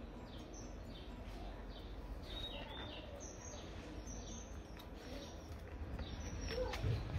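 Small birds chirping over and over in short falling calls, over a steady low background rumble, with a brief low thump near the end.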